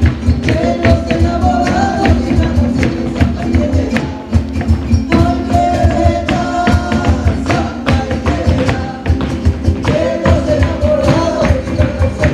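Live band playing upbeat Latin dance music, a dense steady percussion beat under a melody that comes in phrases.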